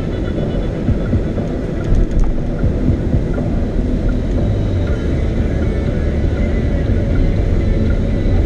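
Steady low rumble of a car's engine and tyres on the road, heard from inside the cabin while driving, with a few faint clicks about two seconds in.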